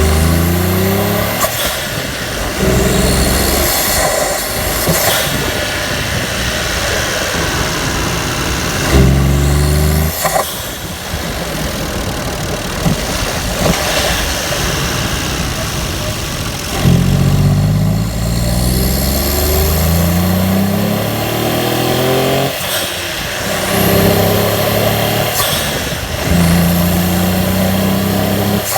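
Small turbocharged Suzuki Alto engine revved in repeated blips with a Blitz cold air intake, each rev rising for a second or two and then cut off, followed by a hissing whoosh from the Greddy blow-off valve venting boost as the throttle closes.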